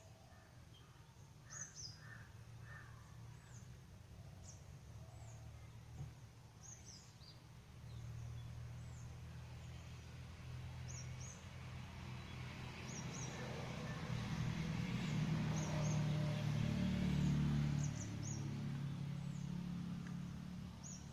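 Small birds chirping in short, high-pitched calls repeated throughout, over a low outdoor rumble that builds in the second half and then eases near the end.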